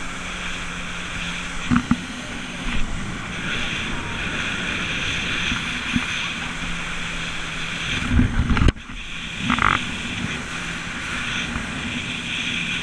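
Jet ski engine running steadily at speed, with wind and water spray rushing past. There are a few sudden thumps as the hull slams over waves, and the sound drops out sharply for a moment near the end of the thumps.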